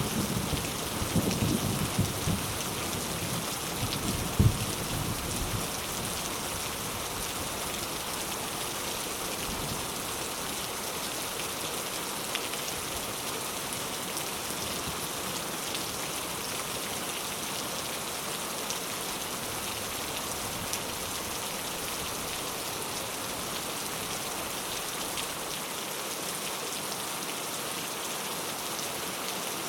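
Steady heavy rain falling on surfaces, an even hiss. A low thunder rumble dies away over the first few seconds, with one sharper crack about four seconds in.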